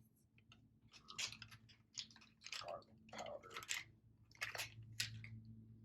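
Salt being added to a pot of pasta water: about six short, irregular gritty bursts.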